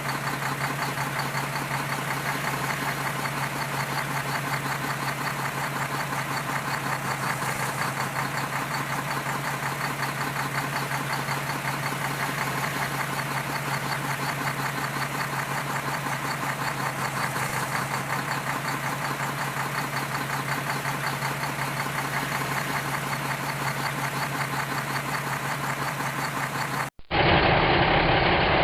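Heavy diesel engine idling steadily at an even pitch. Near the end it cuts off abruptly and louder music starts.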